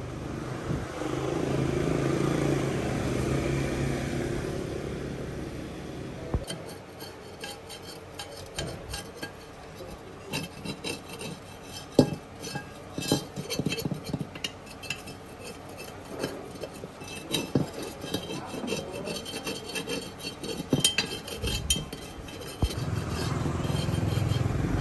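Hand tools scraping and rasping on a tire or wheel rim, with scattered clicks and clinks. An engine hum swells and fades over the first few seconds and comes back near the end.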